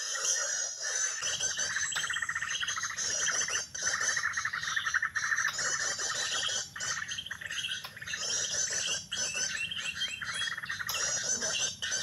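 Small songbirds chirping and trilling rapidly, several high-pitched calls overlapping without a break.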